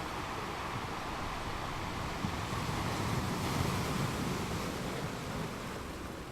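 Sea waves washing ashore with wind on the microphone; the wash swells up midway and eases off toward the end.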